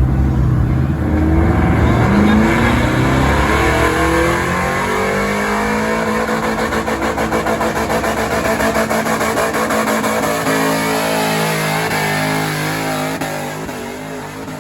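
Stock gasoline pickup truck engine at full throttle pulling the sled, revving up about a second in and then holding high revs with slight rises and dips before fading near the end.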